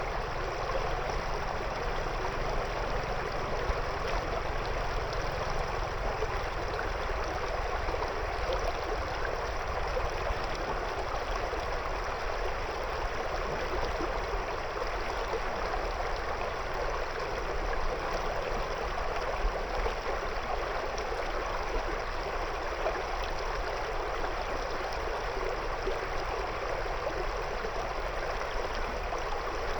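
River water flowing steadily over and around stones, a constant rushing and gurgling.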